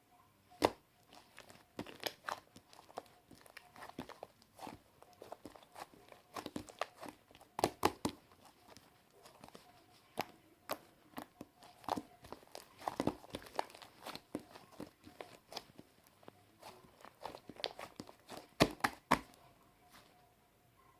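Slime being kneaded and mixed by hand: irregular sticky pops, clicks and crackles, some sharp and loud.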